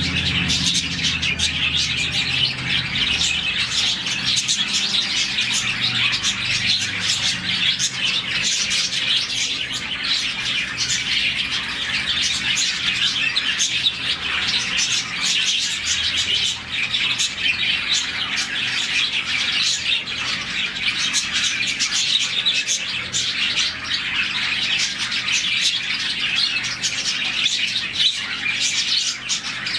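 A colony of about forty budgerigars chirping together: a dense, continuous chatter of many overlapping high chirps, the contented chirping of a morning aviary.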